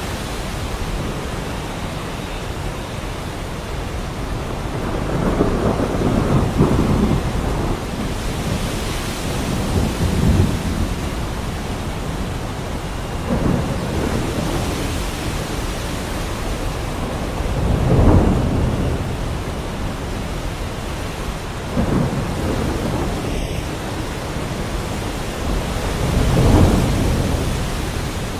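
Heavy rain falling steadily, with rolls of thunder rumbling low every few seconds, about six in all. The loudest rolls come about two-thirds of the way in and near the end.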